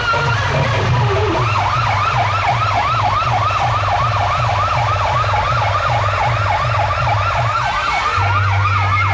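DJ music through a loud festival sound system: a siren-style effect sweeping up and down about three or four times a second over a heavy, steady bass beat. The siren effect starts about a second and a half in.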